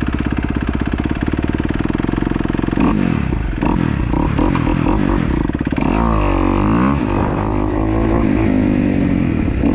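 2015 Kawasaki KX250F single-cylinder four-stroke dirt bike engine idling with an even, fast beat, then revved several times, with one long rise and fall in pitch about six seconds in. The engine is starting and running after its zero-clearance intake valves were adjusted to bring back compression.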